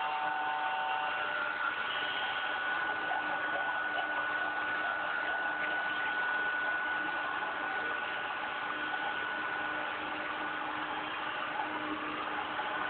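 Airliner jet engines running steadily: an even hiss with a thin, high whine held throughout.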